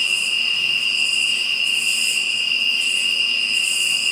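Night insect chorus: a steady high trill with a higher buzz that swells and fades about once a second.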